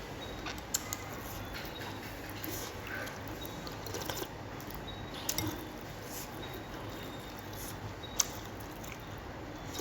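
A person eating noodle soup: soft wet chewing and squishing sounds, with a few sharp clicks, the loudest about a second in and near the end.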